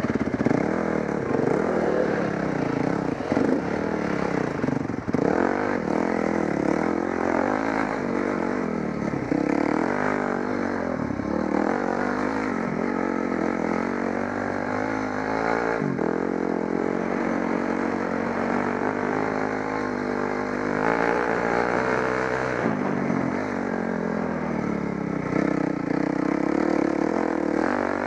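Trail motorcycle engine running under way, revving up and down as it is ridden, its pitch rising and dropping again and again as the throttle opens and closes.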